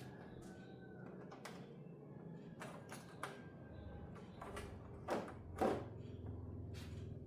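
Scattered light clicks and knocks of hard objects being handled, with two louder knocks close together about five seconds in, over a low steady hum.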